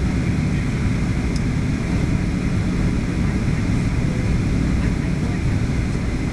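Steady cabin noise inside a Boeing 737-800 airliner in flight: an even drone of engines and airflow, heaviest in the low end.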